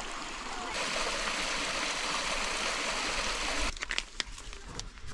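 Steady rushing of running water that cuts off abruptly a little over three and a half seconds in, followed by a few sharp clicks and knocks.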